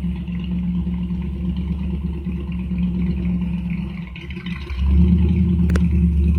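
A heavy machine's engine running steadily. It dips briefly about four seconds in, then runs louder under more throttle from about five seconds, with a single sharp click near the end.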